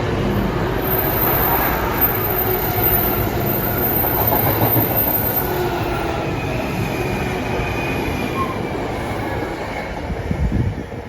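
A train running through the station on the rails, a loud steady rumble with a faint high wheel squeal in the middle; the noise starts to fall away at the very end.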